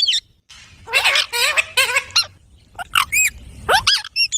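Pet rose-ringed (Indian ringneck) parakeets calling: a string of short, sharp calls, each rising and falling in pitch, coming in bursts with brief pauses between them.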